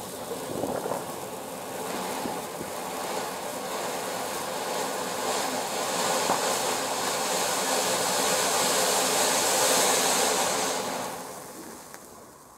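Ground firework, such as a fountain, burning with a steady hiss that swells to its loudest near the end and then dies away as it burns out.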